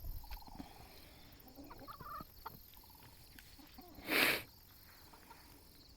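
Chickens clucking softly with a few short calls, and one short, louder burst of noise about four seconds in.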